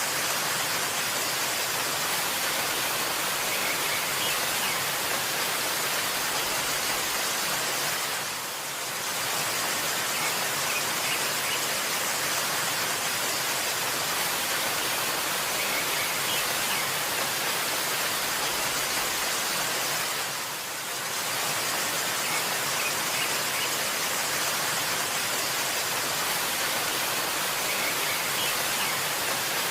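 Steady rush of falling water from a waterfall, an even hiss across all pitches that dips briefly twice.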